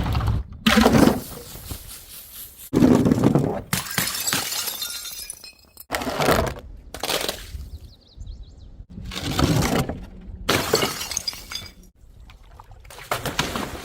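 Glass bottles thrown down stairs, smashing one after another. There are about eight or nine separate crashes, each followed by shards clinking and scattering.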